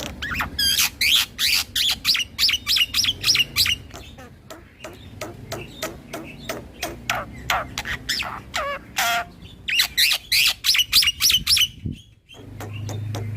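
Black-winged myna (jalak putih) singing a fast rolling run of warbling whistles mixed with harsh, clicking notes. It comes in two long bursts, with softer notes between them, and breaks off near the end.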